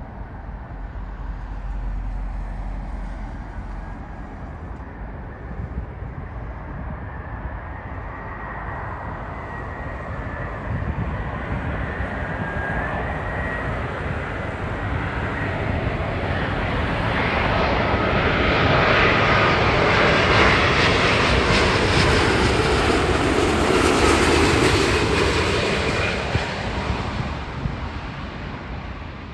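Virgin Atlantic Airbus A350-1000's Rolls-Royce Trent XWB jet engines as the airliner passes, a roar with a faint whine that builds, is loudest for several seconds past the middle, then fades near the end.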